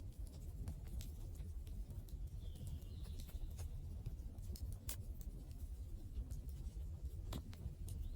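Wood campfire burning, with a low steady rumble of the flames and scattered sharp crackles and pops at irregular intervals. A faint high whistle rises briefly about three seconds in.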